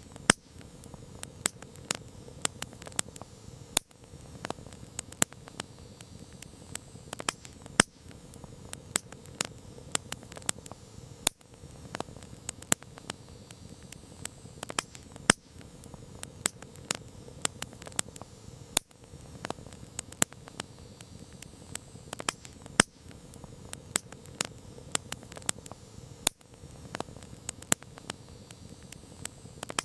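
Campfire crackling: irregular sharp pops and snaps, some much louder than others, over a steady soft hiss.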